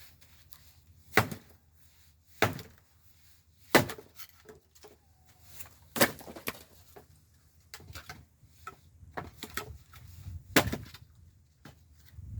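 Pieces of scrap wood knocking and cracking as they are broken up or handled: five sharp wooden hits spread over several seconds, with smaller clatters between.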